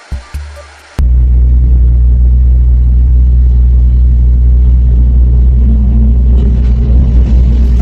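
A loud, steady low rumble starts suddenly about a second in and holds, after a brief stretch of music.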